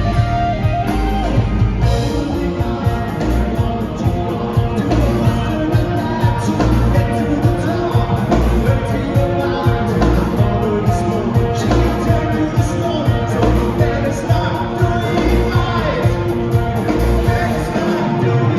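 Live progressive rock band playing loudly, with electric guitar, bass and drums, and a singing voice over the band.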